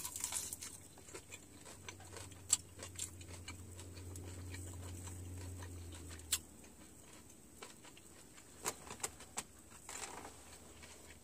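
A person chewing a crunchy fried chicken wing with the mouth open: scattered crunches, lip smacks and wet mouth clicks, quiet.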